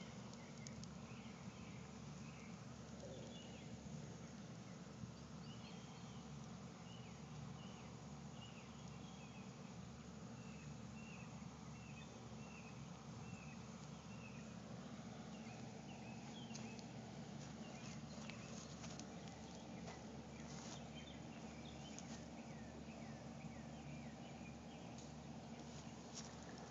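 Faint outdoor background with a steady low hum, over which a bird chirps in a long run of short, evenly repeated notes through the first half. Scattered faint clicks and crackles follow in the second half.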